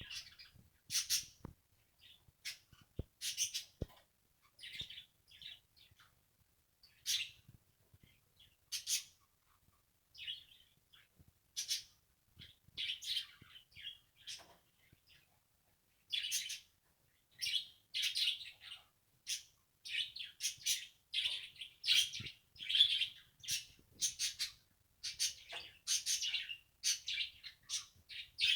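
Budgerigars chirping and warbling in short calls, scattered at first and coming almost without pause from about halfway on.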